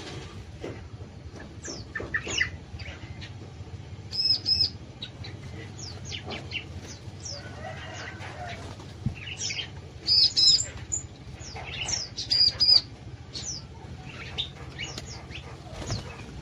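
Small aviary songbirds calling: many short chirps and sweeping whistles, with a few louder, ringing calls about four, ten and twelve seconds in. A steady low hum runs underneath.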